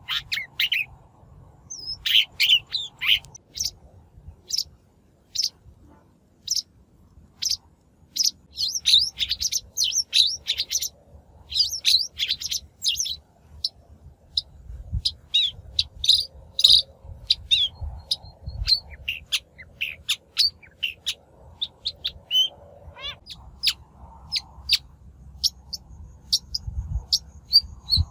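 Shrike song: rapid spurts of short, sharp chirps and harsh notes, broken by brief pauses, with a quick trill late on. It is a natural shrike lure call of the kind used to draw in and train wild shrikes.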